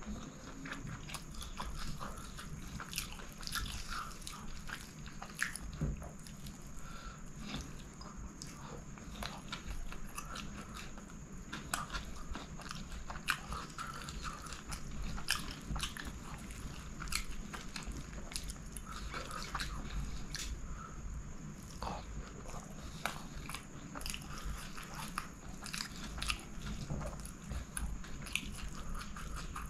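Close-miked chewing of chicken kottu roti: steady mouth sounds with many irregular wet clicks and smacks, mixed with the squish of fingers working through the chopped roti on the plate.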